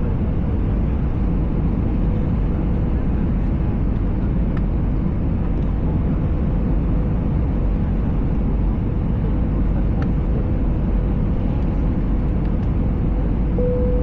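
Steady rush of airflow and engine noise heard inside the cabin of an Airbus A320 on its approach, with a faint steady hum that briefly grows louder near the end.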